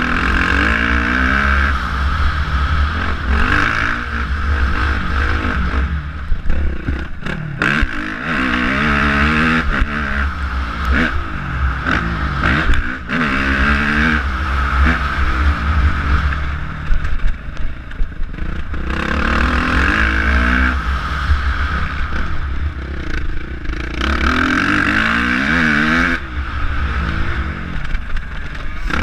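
Motocross bike engine revving hard and dropping back again and again as the rider works the throttle and gears, over a constant low rumble.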